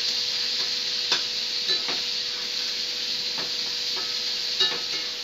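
Shallots, garlic and curry leaves sizzling in hot oil in an iron kadai while being stir-fried, the spatula scraping and knocking against the pan every second or so with short ringing clinks.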